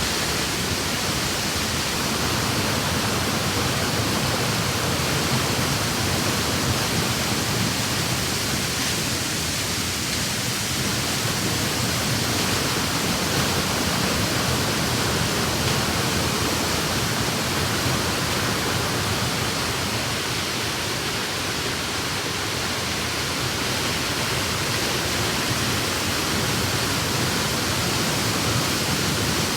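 Steady roar of a waterfall about ten metres high, its water rushing down without a break.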